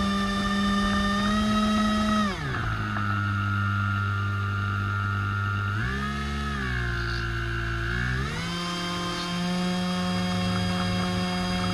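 A small radio-controlled model boat's motor running with a steady buzzing whine. It slows sharply about two seconds in, shifts speed again around six seconds, and speeds back up just after eight seconds.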